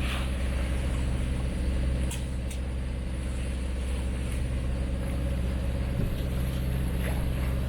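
A sailboat's engine running steadily while motoring under way, a constant low drone. A couple of light clicks about two seconds in.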